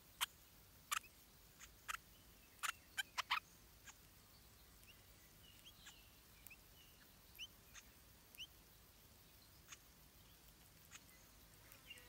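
Small birds calling: a quick series of short, sharp chip notes in the first few seconds, then scattered faint, thin rising chirps, over a low steady hiss.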